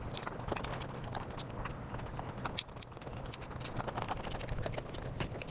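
Close-miked eating sounds: chewing, lip-smacking and small wet clicks from a mouth working through food, over a low steady hum.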